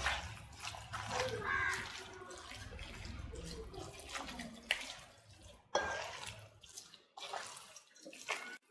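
Hands squishing and rubbing a wet spice paste (masala) into scored raw chicken pieces, with irregular wet squelches and slaps.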